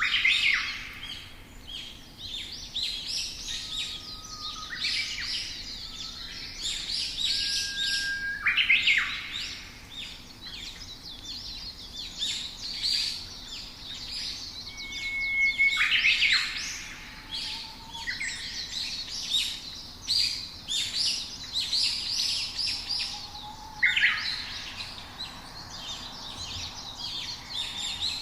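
Songbirds chirping and singing, a dense run of quick chirps with a few short whistled notes held on one pitch.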